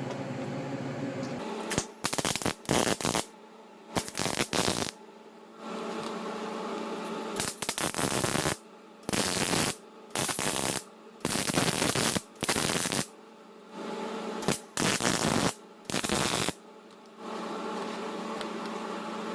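Welding arc crackling and sputtering in about a dozen short bursts of under a second each, as thin, fatigue-cracked steel of a Kubota F3060 tractor muffler is tack-welded with the welder turned way down. A steady hum runs between the bursts.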